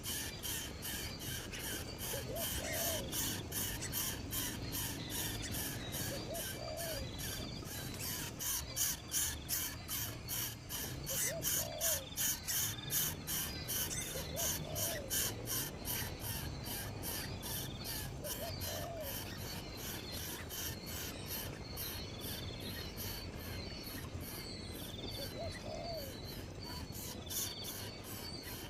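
Insects chirping in a steady rapid pulse, about three pulses a second, with a single low hooting bird call repeated about every four seconds.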